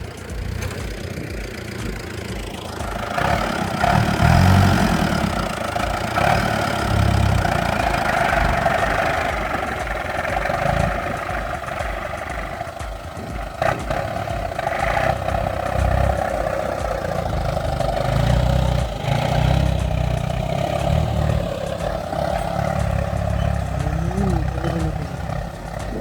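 Old Kubota tractor engine running steadily, growing louder about three seconds in.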